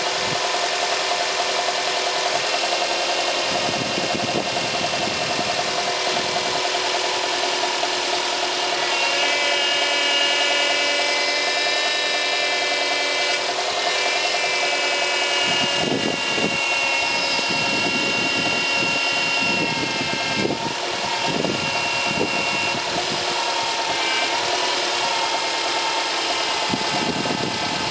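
Subaru Impreza 1.5's power-steering pump moaning over the idling engine as the steering wheel is turned to full lock; the whine comes in and out in stretches. The cause was air drawn into the power-steering system past a worn rubber ring on the return hose at the pump.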